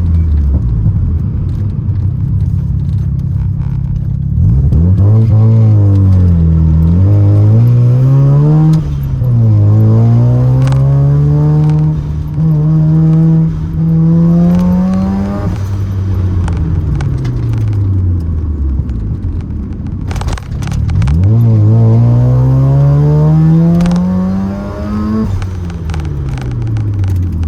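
Mazda RX-7's 13B rotary engine under way, its pitch climbing in several long pulls, broken by quick drops and one slow fall-off as the revs come down before it pulls again near the end.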